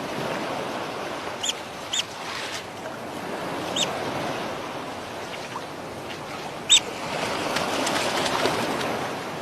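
Sea surf washing on the shore, swelling near the end, with four short high chirping calls scattered through it.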